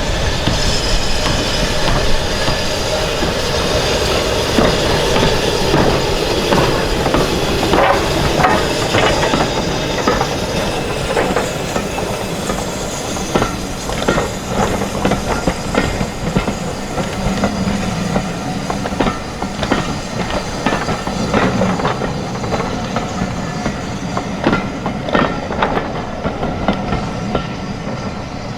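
Train running past, a steady rumble of wheels on the rails with a long run of sharp clicks as the wheels cross rail joints.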